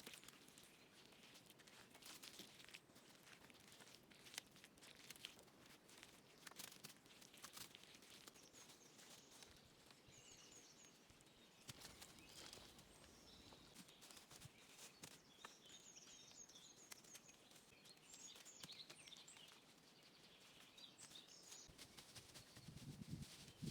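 Faint outdoor ambience: small birds chirping in short, high, repeated phrases through the middle, with scattered light clicks and rustles throughout.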